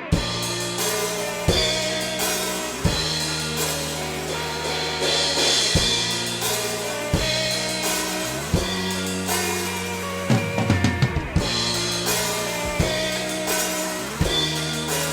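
Rock band music driven by a drum kit, which comes in at the start with bass drum, snare and cymbal hits over held bass notes. Strong accented hits fall about every second and a half, and a quick busy drum fill comes about ten seconds in, with another near the end.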